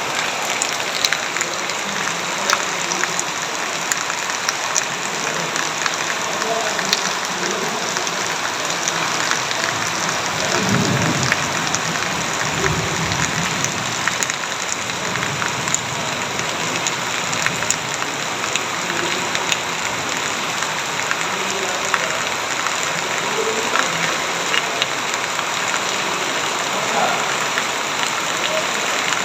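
Heavy rain pouring steadily and pattering on a hard surface, with many sharp individual drop impacts. A low rumble swells and fades about eleven seconds in.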